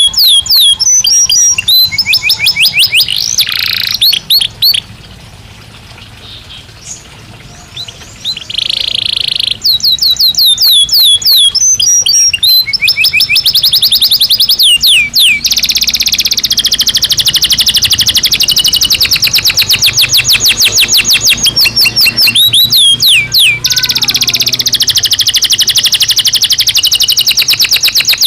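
Belgian canary singing: rapid trills of repeated notes, broken by a short quieter pause a few seconds in, then long, fast, unbroken trills through the second half.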